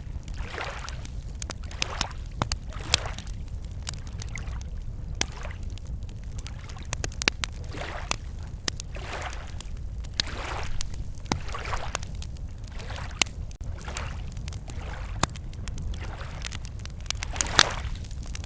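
Wood campfire crackling with frequent sharp pops, over small lake waves lapping at the shore in soft swells every second or two.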